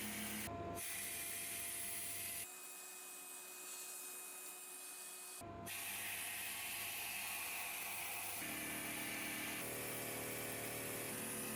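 A small motor, like a hand-held rotary tool, running steadily with a high whine and hiss. The sound changes abruptly several times and is quieter for a few seconds about 2.5 s in.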